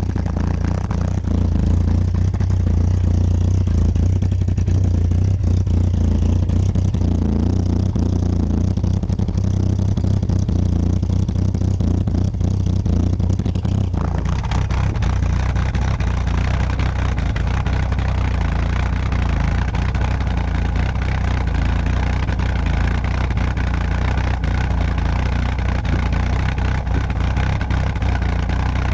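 Citroën BX 16v injection relay and idle control actuator clicking and buzzing irregularly with the ignition on: the strange injection noise, over a steady low hum. The sound grows brighter and fuller about halfway through.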